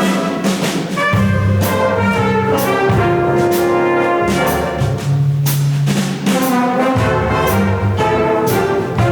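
A student instrumental ensemble plays music with brass to the fore: trumpets and trombones hold sustained chords that change every second or so, punctuated by several percussion hits.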